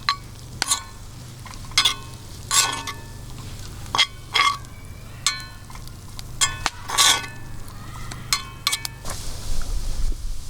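Metal utensil clinking against a metal pot or pan while stirring food, about a dozen irregular clinks with a brief ring, over a steady low hum. A hiss, like sizzling, rises near the end.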